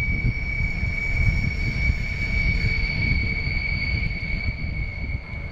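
Rhaetian Railway Ge 4/4 III electric locomotive hauling a regional train past at low speed: a low rumble of wheels on the track, with a steady high-pitched whine throughout.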